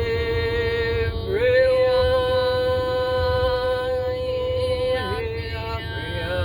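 A single voice singing in the spirit with no words, holding long sustained notes at a high pitch and sliding between them. One note is held for about three and a half seconds through the middle, with a short dip in pitch just before it and another just after. A steady low hum runs underneath.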